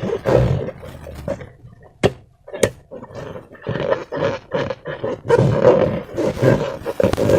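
Slime being squeezed and worked by hand, giving irregular wet squelching bursts, with two sharp clicks about two seconds in.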